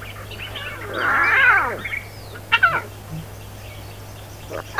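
Lion cub calling with mewing cries: a drawn-out call that falls in pitch about a second in, a short sharper call in the middle, and another cry starting near the end.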